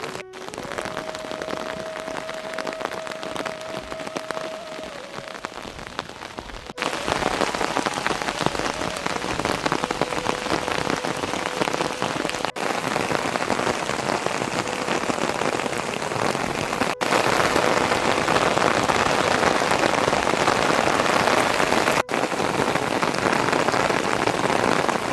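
Steady rain falling, a dense even hiss of raindrops that gets heavier in two steps, about a quarter and about two-thirds of the way through.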